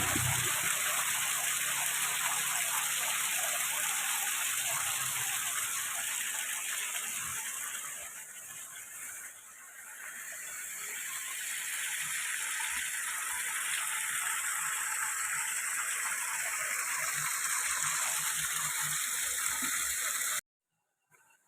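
Rushing water of a waterfall, a steady hiss that dips briefly about halfway through before coming back, then cuts off suddenly near the end.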